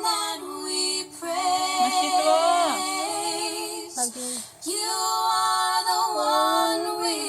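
Music with a woman singing: long held notes with vibrato and sliding pitch, broken by short pauses about a second in and about four seconds in.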